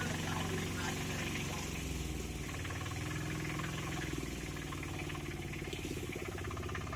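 An engine running steadily at low revs, its pitch wavering slightly.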